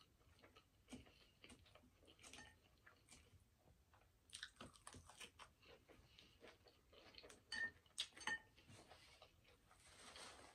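Faint close-miked chewing of a mouthful of salad, with soft crunches and small wet mouth clicks. A few sharper clicks of a plastic fork against the glass bowl come through now and then.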